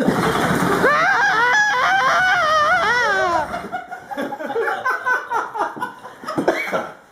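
People laughing and whooping excitedly, with a smoothly wavering voice in the first few seconds over a steady hiss that cuts off abruptly at about three and a half seconds, then scattered laughter.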